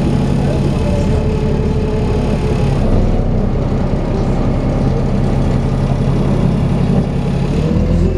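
Dennis Trident 2 double-decker bus (Alexander Enviro 400 body) running, a steady engine drone with the vacuum-cleaner-like whine that bus enthusiasts call 'hoovering'. The note shifts about three seconds in and begins to climb near the end as the bus pulls harder.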